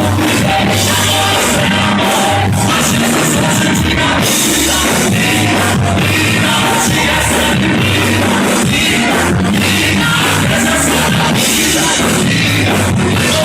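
Loud band music with singing, drums and heavy bass: a gospel song.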